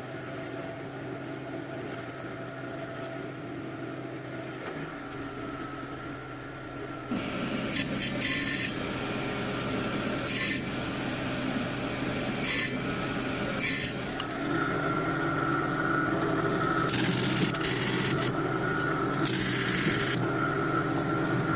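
A power tool's motor running steadily while a small piece of leopardwood liner is worked against it to trim its miter, a rasping sound that begins about a third of the way in and comes in several short passes.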